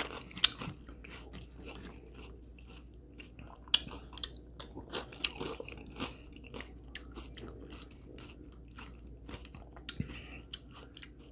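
A person chewing food close to the microphone: irregular wet mouth clicks and smacks, with a few sharper crunches.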